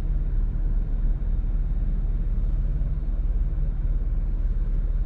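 Steady low rumble inside a car driving with its windows open.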